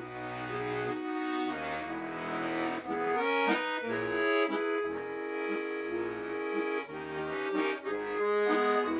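Accordion playing the instrumental introduction to a Russian folk song: a melody over sustained chords, with changing bass notes underneath.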